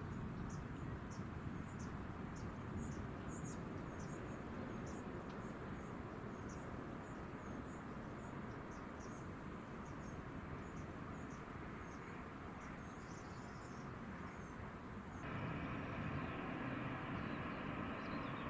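Insects chirping, short high chirps a few times a second, over a low outdoor rumble. About fifteen seconds in, the sound changes abruptly to a louder, steady mechanical hum with several held tones.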